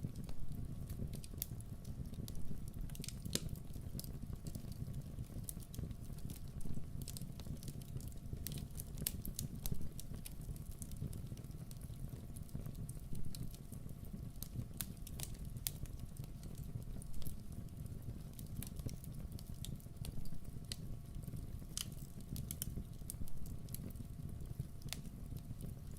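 Campfire burning: wood crackling with irregular snaps and pops over a steady low rumble of the flames, a few louder pops every couple of seconds.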